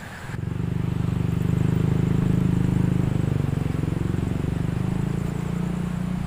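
An engine running at a steady speed, coming in suddenly about half a second in, with a low rapid pulsing.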